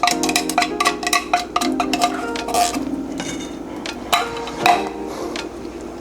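A metal spoon clinking and scraping against a cooking pot while stirring, as quick irregular clicks that thin out about halfway through. Soft background music plays underneath.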